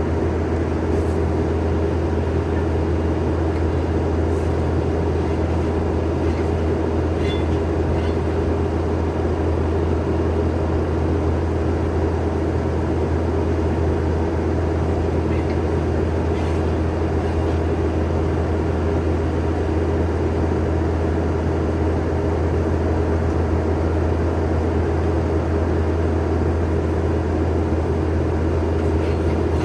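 Skid steer engine running at a steady speed, a constant low hum.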